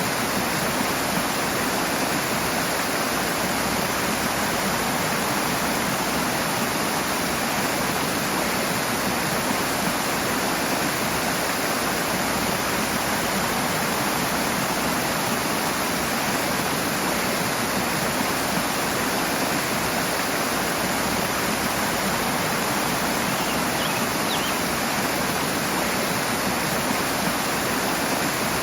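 Rushing water, a stream running fast over rocks, as a steady dense roar without let-up.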